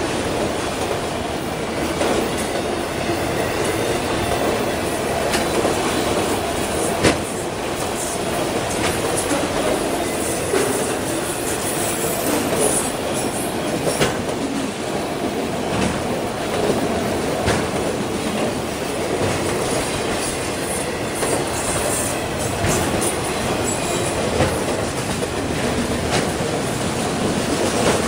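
CSX freight train rolling past: a steady rumble of wheels on rail, with sharp clacks over rail joints every few seconds and now and then a faint high wheel squeal.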